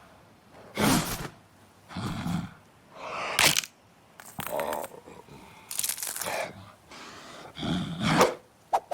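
Short cartoon vocal sound effects, grunts and breathy noises from a character, coming in separate bursts about once a second.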